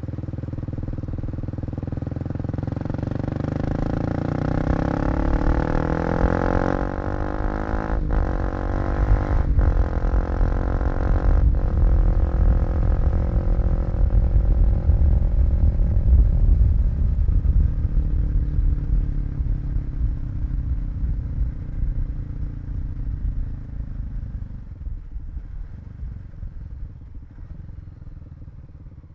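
Kawasaki KLX250 single-cylinder four-stroke engine accelerating, its pitch rising, then shifting up three times in quick succession with brief cuts in sound. It holds speed for a while, then eases off and slows, dropping toward a low idle near the end.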